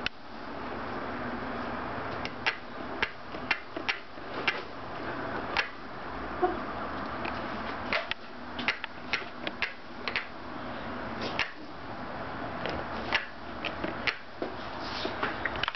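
Scotts steering damper creaking and clicking irregularly as the handlebars are forced against it on a high damping setting: a string of sharp creaks over a steady hiss. The owner feels the damper clicking as if something inside may be binding.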